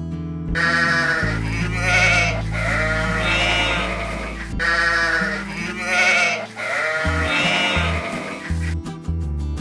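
Sheep bleating several times in overlapping calls, over background music.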